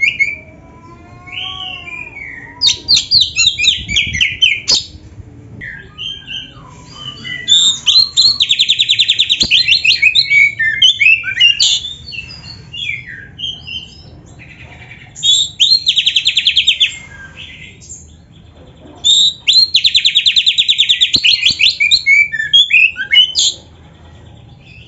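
Oriental magpie-robin (kacer) singing loud song bursts of very fast rattling trills and varied whistled notes, with short pauses between phrases. It is a showy 'gacor' song full of mimicked phrases.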